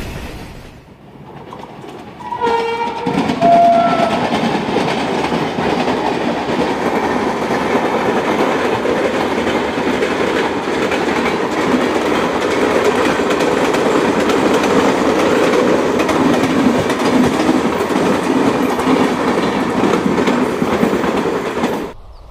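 Electric locomotive horn sounding two short notes about two seconds in, then a passenger train passing close at speed: the steady noise of coaches' wheels running on the rails, cutting off suddenly near the end.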